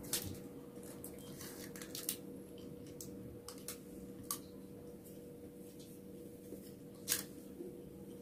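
Eating with the bare hand from a foil-lined tray: scattered soft clicks and rustles of fingers in rice and on the foil, with chewing mouth sounds. Four sharper clicks stand out, the loudest about seven seconds in, over a steady low hum.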